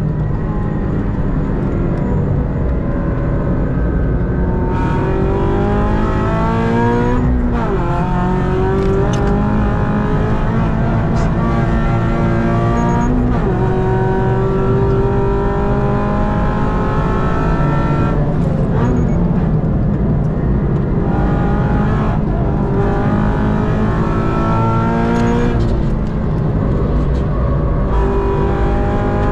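A 2022 Subaru BRZ's 2.4-litre flat-four engine heard from inside the cabin on a hard track lap. The engine note climbs under acceleration, falls back sharply several times, then climbs again.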